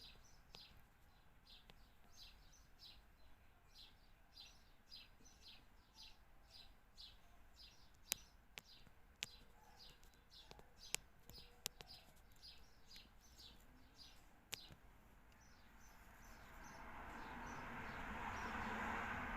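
A small bird chirping repeatedly, about two short high chirps a second. Several sharp clicks come in the middle. A rush of noise swells up near the end.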